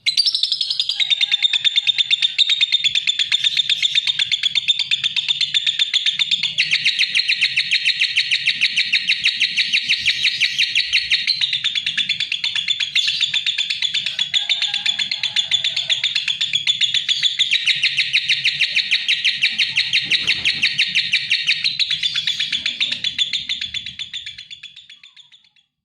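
Lovebird chattering: a continuous, rapid, high-pitched run of chirps and buzzy trills that fades out near the end.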